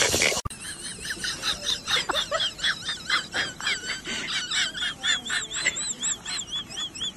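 Small bird chirping rapidly, with a run of repeated high whistled notes, about four a second, in the second half.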